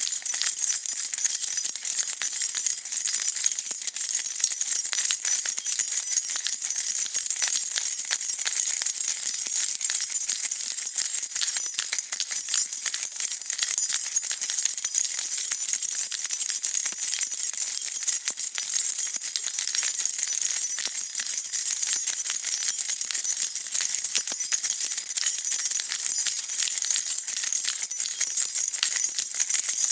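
A bunch of metal keys being shaken continuously, a dense, steady jingling and clinking.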